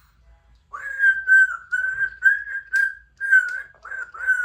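Congo African grey parrot whistling a quick string of about nine short notes, all on the same pitch, starting about a second in.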